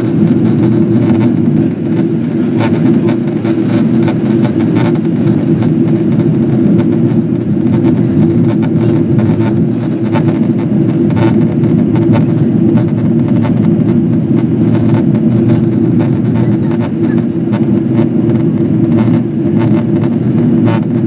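Steady cabin noise of a Boeing 777-200ER descending into cloud: a loud, even rumble of airflow and engines, with scattered light clicks and rattles from the cabin as it gets a little bumpy.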